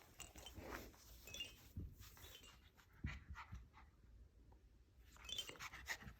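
Faint sounds of an Australian shepherd puppy moving about: light, scattered clicks and scuffs with a few short, faint high-pitched notes.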